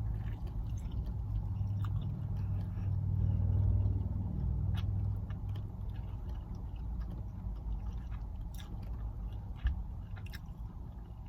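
A person chewing a breakfast sandwich, with small wet mouth clicks scattered throughout, over a steady low rumble.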